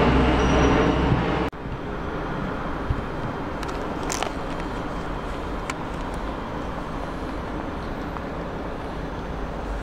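A passing train running loudly with a steady low hum, cut off abruptly about a second and a half in. After that, steady, quieter railway-station background noise with a few faint clicks.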